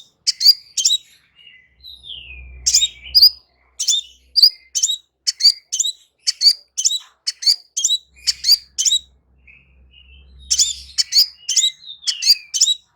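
Crimson sunbird singing: a rapid run of sharp, high chirps, about two or three a second, with a couple of slurred notes gliding downward. A faint low rumble sits beneath it at times.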